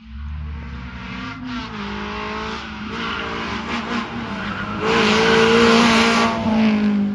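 Rally car's engine running hard, its note stepping up near two seconds in. It grows loudest about five seconds in, with a rush of tyre noise as the car comes close.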